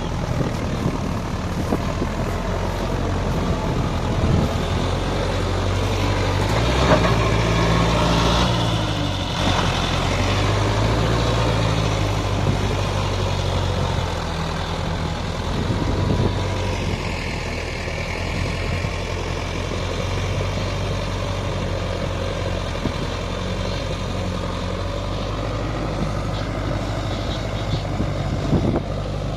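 Sonalika DI 55 RX four-wheel-drive tractor's diesel engine running steadily under load. Its pitch rises about seven seconds in and eases back a few seconds later.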